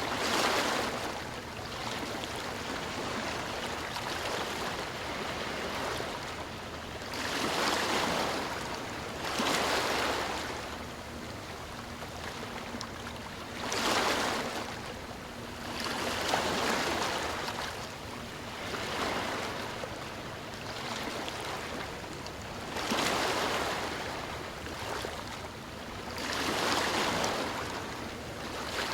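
Ocean waves breaking and washing on a shore, one surge after another every few seconds, with a steady wash of surf between them.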